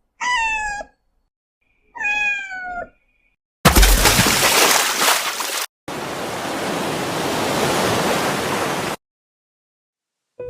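A kitten meows twice, each a short descending mew. These are followed by a loud burst of noise that opens with a low thump, then about three seconds of steady rushing noise like water.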